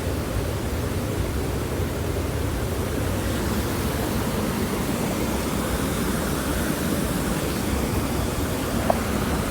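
Creek water running with a steady rushing sound, and one faint click near the end.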